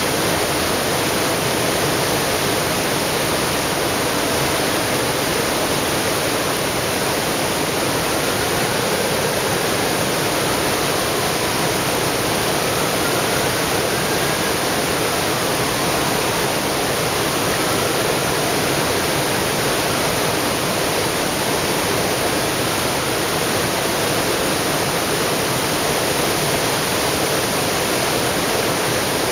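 Floodwater pouring over a dam: a loud, steady rush of falling water.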